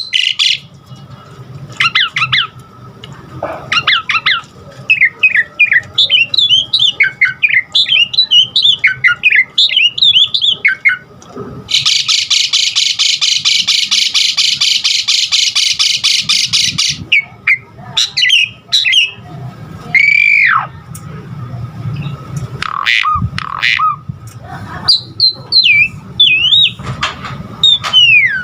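Pied myna (jalak suren) singing a varied song of short whistles, chirps and gliding notes, with a loud harsh rattling chatter of about five seconds near the middle.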